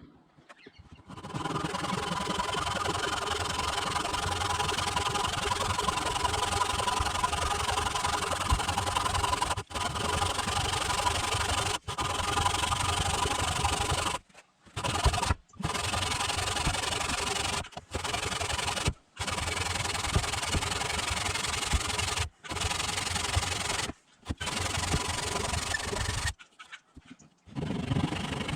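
A power tool working a piece of jarrah hardwood, running steadily as it cuts or sands the wood. It is broken several times by sudden short stops.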